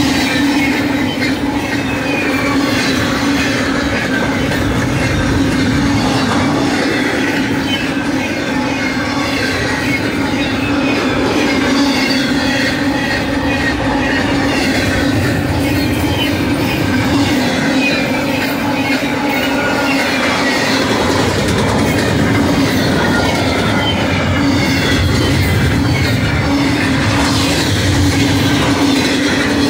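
Loaded double-stack container train's well cars rolling past at speed: a loud, steady rush of steel wheels on rail over an even low hum.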